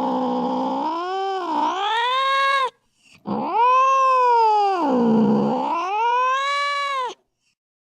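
Domestic cat caterwauling: two long drawn-out yowls whose pitch sags and rises. The second starts after a short break and cuts off sharply near the end.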